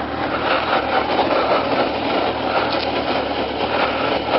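Small vehicle engine running steadily, heard from a microphone inside the rider's helmet, with a rushing noise over a low hum.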